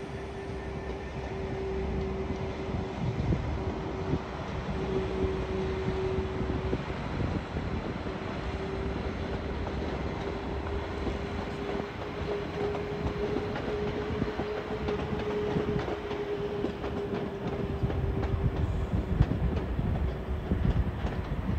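Two-car diesel multiple unit rumbling as it pulls away and runs out across the points, its wheels clattering over the rail joints more sharply near the end. A steady whine runs underneath throughout.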